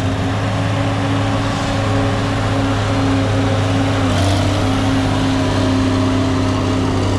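A vehicle engine running steadily at a constant speed, with no revving.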